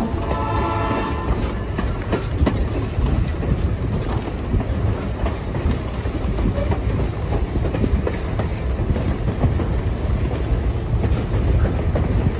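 Excursion train running on the rails: a steady heavy rumble with irregular clicks of the wheels over rail joints. The locomotive's horn chord is just finishing, cutting off about a second and a half in.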